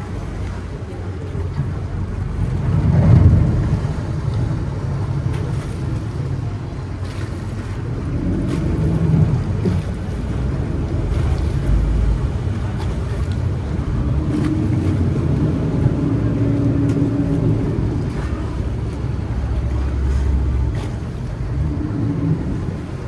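Motorboats on a canal: engines running as a low, steady hum that swells about three seconds in, mixed with the wash of water.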